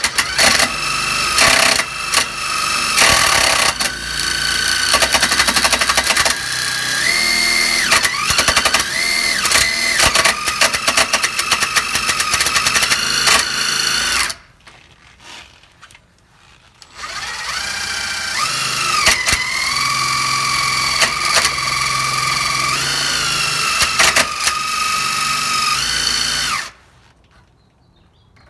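Electric drill boring the larger holes, its motor whine sagging in pitch as the bit bites and picking back up as it frees. Two long runs with a pause of about three seconds between them, stopping near the end.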